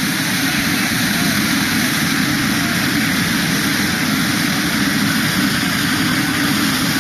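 Hand-held tezutsu fireworks tube spraying its fountain of sparks: a loud, steady rushing hiss.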